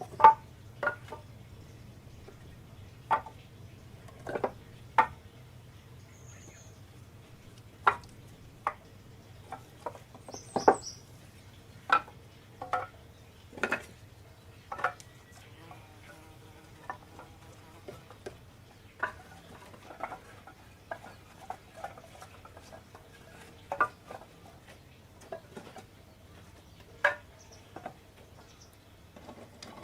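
Irregular wooden knocks and clatters, like pieces of split firewood being picked up and set against one another, over a faint steady low hum.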